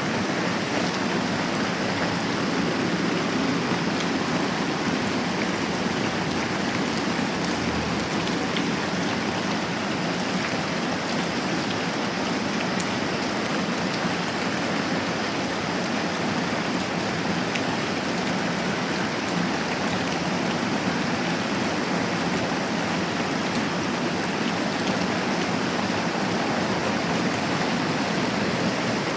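Steady moderate rain falling, an even hiss with a few faint scattered ticks of drops.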